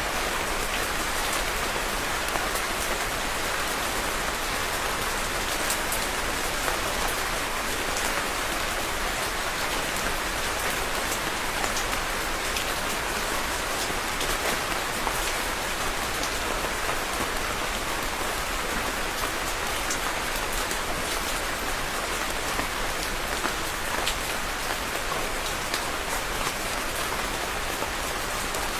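Steady rainfall, an even hiss of rain with scattered individual drops pattering on a surface.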